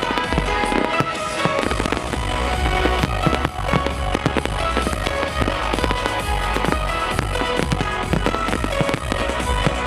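Fireworks bursting and crackling in rapid succession over a loud music soundtrack with a heavy bass line.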